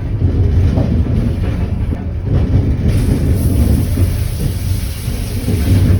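Shower running in a sleeper train's shower cubicle, water spraying and splashing over a low, steady rumble. About three seconds in, the spray takes on a brighter hiss.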